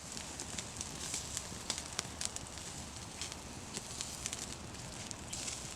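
Wood campfire crackling, with scattered sharp pops over a faint steady hiss.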